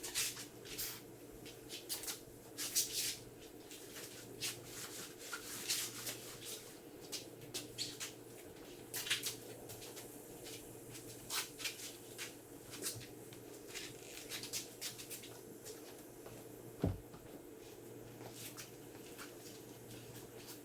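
A run of short, irregular scrubbing and rubbing strokes from hands-on car-detailing work, over a steady low hum, with one soft low thump about 17 seconds in.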